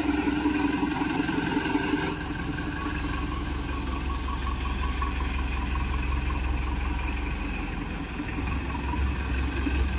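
Vehicle engine running steadily, with a faint high chirp repeating about two or three times a second.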